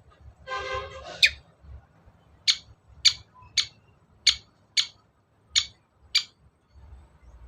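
Long-tailed shrike (cendet) calling: a harsh, rasping call about half a second in, then a run of eight sharp, high notes, each sweeping downward, roughly every half second.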